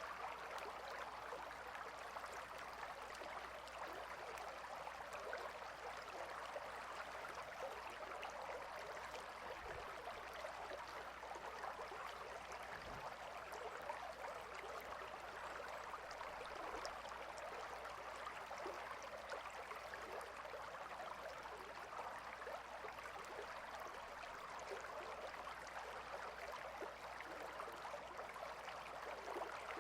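A gently flowing river, its water babbling and trickling in a steady, unbroken wash.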